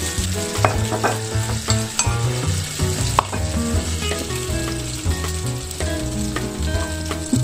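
Food sizzling as it fries in a pan, stirred with a utensil that clicks against the pan several times, over background music.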